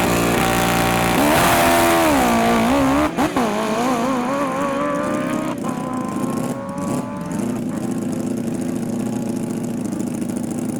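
A drag-racing vehicle's engine held at high revs, its pitch wavering, then climbing steadily as it accelerates away and fades over the next few seconds. A lower, steadier engine sound runs on underneath near the end.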